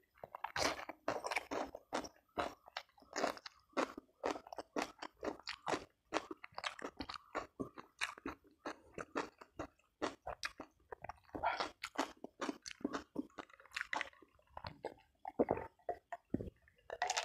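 Close-miked chewing of food by a person eating, with a dense, irregular run of short crisp crunches.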